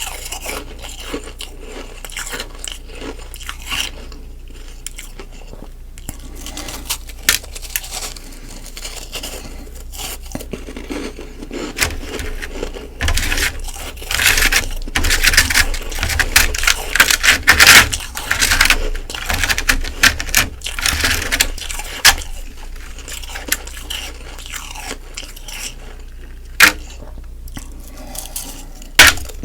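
Close-miked biting and chewing of humidifier frost ice: irregular crackling crunches, thickest and loudest in a run through the middle, with a couple of sharp clicks near the end.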